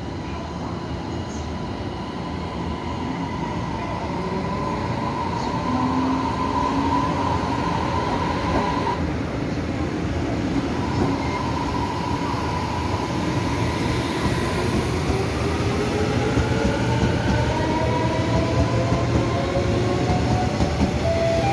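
Electric multiple-unit commuter train running along the station platform close by: a continuous rumble of wheels on the rails under a whine that shifts in pitch. The whine rises over the last several seconds as the sound grows louder.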